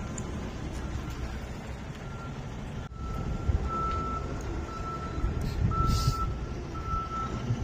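Semi truck's backup alarm beeping about once a second as it reverses, over the low rumble of its diesel engine; the beeps grow louder a few seconds in. A brief hiss about six seconds in.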